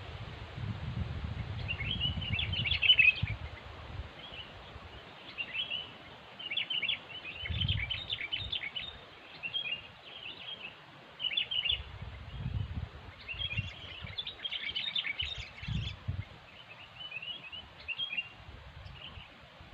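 Sooty-headed bulbuls (kutilang) chirping in short bursts of chattering calls every second or two, with intermittent low rumbling beneath.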